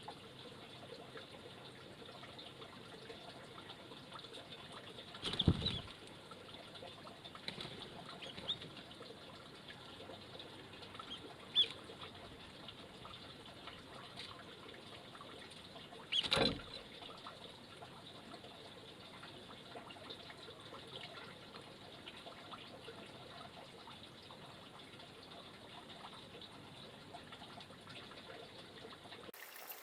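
Faint steady trickle of water with a few short, high chirps of small wild birds and two brief louder rustles, about five and sixteen seconds in.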